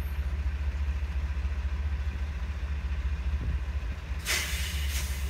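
Diesel locomotive engine of a ballast train running with a steady low drone as the train moves slowly by. About four seconds in there is a short, loud hiss.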